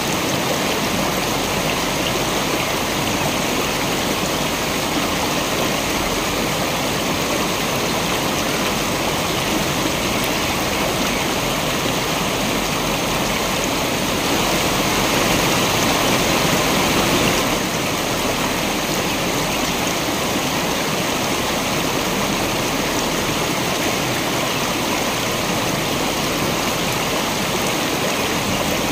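Waterfall: a steady rush of falling water with no pauses. It is a little louder for about three seconds around the middle, then drops back suddenly.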